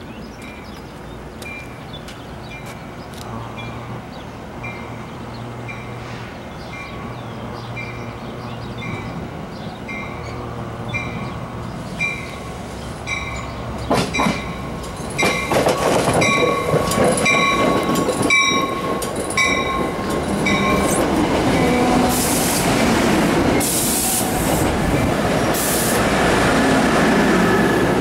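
A commuter train approaching and pulling into the platform, its noise growing steadily louder. An evenly repeated ringing runs through the first two-thirds, and a long held tone comes in the middle. As the cars come alongside, loud rushing and screeching of wheels and brakes takes over.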